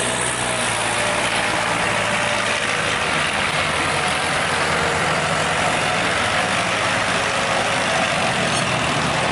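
Tractor engine running steadily and loudly, with no let-up or change in pitch.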